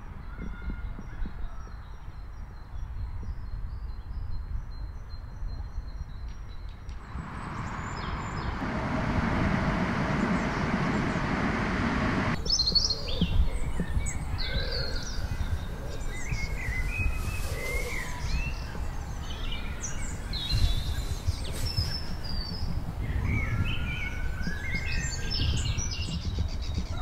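Birds chirping and calling, many short calls and some gliding ones, over a low rumble. A steady rushing noise fills several seconds in the middle and cuts off abruptly about twelve seconds in.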